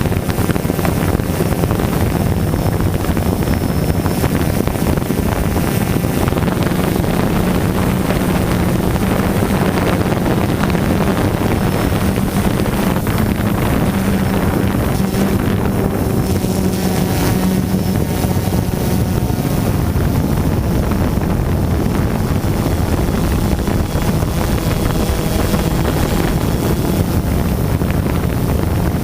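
DJI Phantom quadcopter's motors and propellers droning steadily in flight, picked up by the GoPro mounted on the drone, with wind rushing over the microphone.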